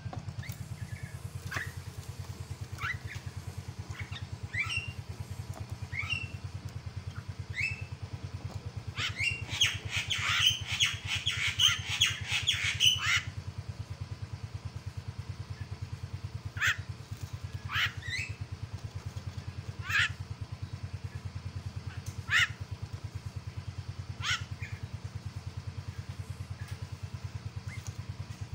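Javan myna calling: short, sharp, downward-sliding calls every second or two, with a burst of rapid harsh chattering about a third of the way in. Underneath runs a steady low hum.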